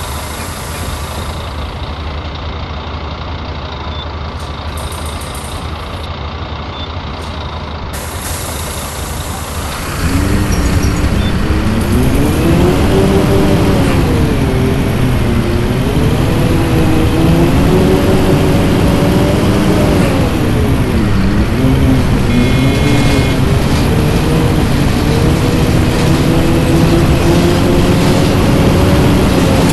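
Scania-chassis city bus engine running at a low steady idle, then from about ten seconds in pulling away under load, its note climbing and dropping back several times as it accelerates through the gears.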